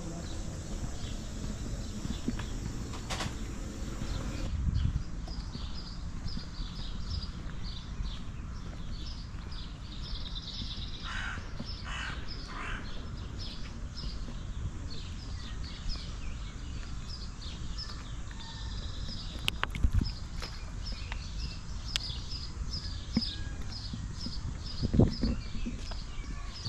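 Birds calling: a fast, steady run of short high chirps, with a few harsher, lower calls in the middle, over a constant low rumble.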